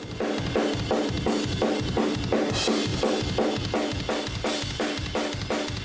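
Recorded drum kit heard through its room microphones, playing a steady groove of kick and snare hits about four a second with a cymbal splash midway, while the lower mids are boosted around 350 Hz with a channel-strip EQ.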